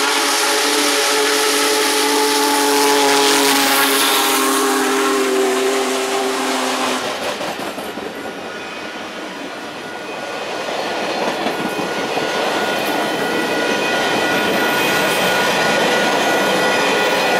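Union Pacific 4014 "Big Boy" steam locomotive blowing its whistle in one long, steady chord, which cuts off about seven seconds in. Then the train rolls close past: a diesel locomotive and passenger cars, with wheels clattering on the rails and the rumble growing louder toward the end.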